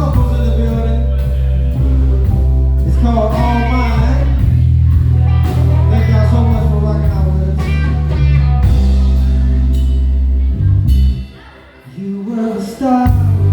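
Live band playing: a heavy bass line and drums under a melodic lead line. About 11 seconds in, the band breaks off for a moment, then comes back in.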